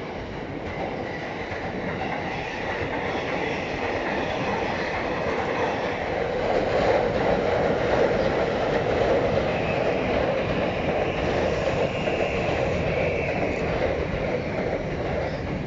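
Rinkai Line 70-000 series electric train pulling away, its wheels running and clattering over the points. The sound grows louder over the first several seconds, and long high squealing tones ride over it.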